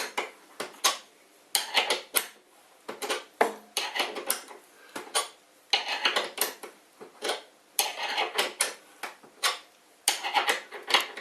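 Metallic clinking and scraping in short irregular bursts, about one every second or so: the threaded bolt feet of a CNC table being screwed up and down to level it.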